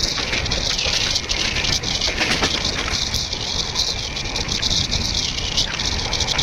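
Passenger train running along the track: a steady loud rumble and rattle with frequent sharp clicks.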